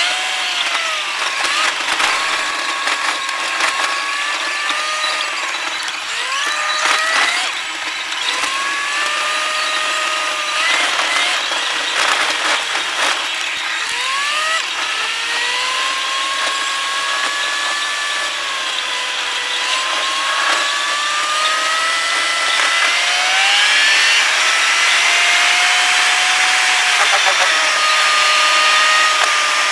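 Car engine and road noise, sped up so that the engine sounds as a high whine. The whine repeatedly rises in pitch and drops back every few seconds as the car accelerates and shifts, over a steady hiss with a few short knocks.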